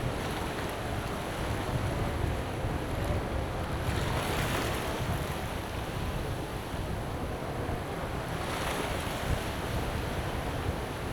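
Sea surf washing onto the beach, with waves surging twice, about four seconds in and again a few seconds later. Strong wind buffets the microphone with a steady low rumble.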